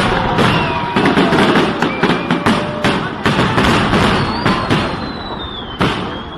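New Year's fireworks going off in quick succession: a dense run of bangs and crackling that thins out after about three seconds, with whistles sliding in pitch over it and one sharp bang near the end.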